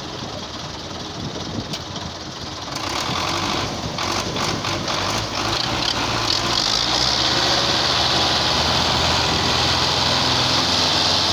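Diesel engine of an overloaded Belarus tractor running under load as it tries to pull on rain-slick ground, growing louder about three seconds in and then holding steady.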